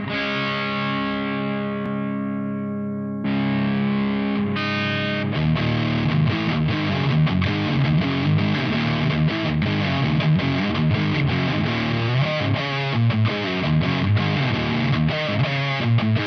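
Electric guitar through an Ibanez Metal Charger distortion pedal. A held distorted chord rings for about three seconds, a second chord is struck, then a fast riff of short, choppy strokes follows.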